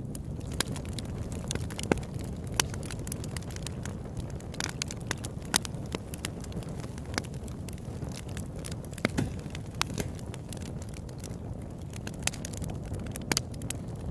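Campfire burning, wood crackling and popping at irregular moments, some pops sharper and louder than the rest, over a steady low rush.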